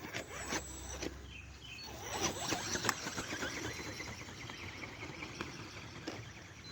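Handmade RC ornithopter's motor-driven wings flapping, a fast dry rattling flutter that starts about two seconds in after a few sharp clicks.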